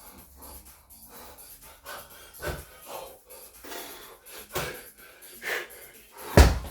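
Hard, wheezing breaths of a man mid-workout, then near the end one loud thud: a slam ball hitting the floor.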